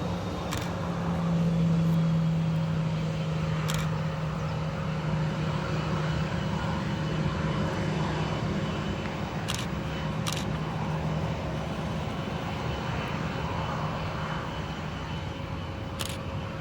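Boeing 737 airliner's jet engines running as the plane lands, a continuous engine rush with a steady low hum, loudest about two seconds in and gradually fading away. A few short clicks sound now and then.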